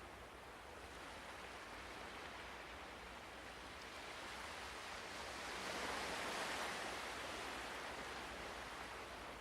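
Ocean waves washing in softly and steadily, one wave swelling to its loudest a little past the middle and then easing back.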